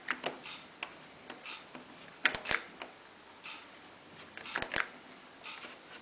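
Sharp clicks from the controls of a Miele PW6055 Plus washing machine's panel as programmes and options are stepped through: two loud double clicks, about two seconds in and again near five seconds, with fainter ticks between.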